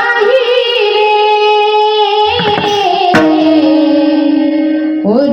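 Opening of a Marathi devotional song: held melodic notes with a woman's singing voice, the tune shifting about two seconds in, and a single sharp percussive stroke about three seconds in.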